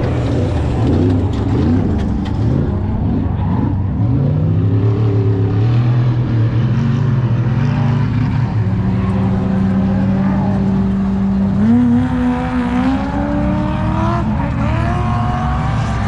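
Vehicle engines running and revving. One holds a steady pitch for a few seconds, then climbs in steps through the last few seconds.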